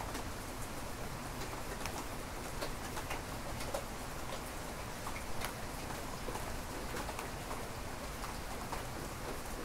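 Steady rain falling, with many sharp individual drop hits close by over the even hiss of the downpour.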